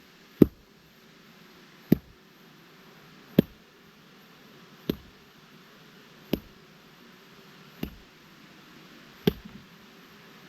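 Wood being chopped with an axe: seven sharp strikes at an even pace, about one and a half seconds apart.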